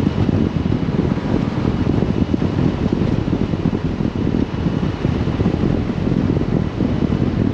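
A 1970 Toyota Land Cruiser on the move: a steady low rumble of wind, road and engine noise with no separate events.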